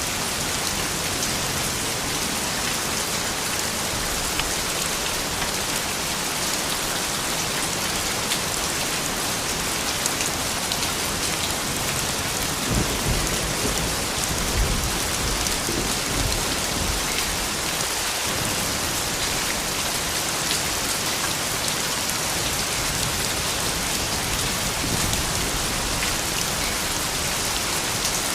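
Steady rain falling and pattering on surfaces, with a low rumble of thunder swelling a little before halfway through.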